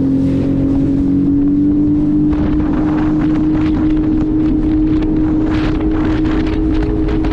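Jet ski engine running at speed, a steady whine that climbs slowly in pitch, with wind buffeting the microphone. From about two seconds in, rapid irregular bursts of splashing noise join it.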